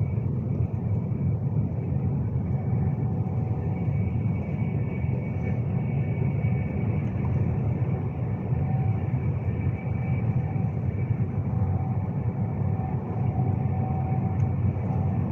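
Steady low rumble of a Class 390 Pendolino electric train running at speed, heard from inside the carriage, with a faint steady whine above it.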